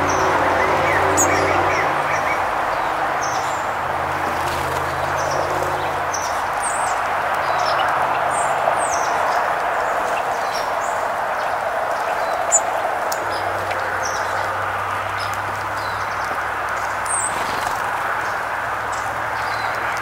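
Short, high songbird chirps scattered over a steady background rush, with a low hum that fades out for a while in the middle.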